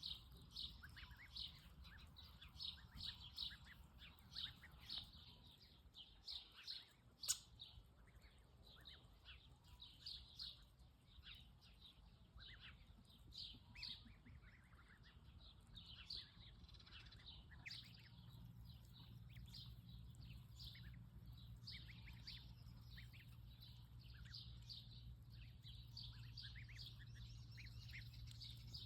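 Faint chorus of birds chirping: many short, high calls overlapping throughout, with a single sharp click about seven seconds in. A low steady hum comes in past the middle.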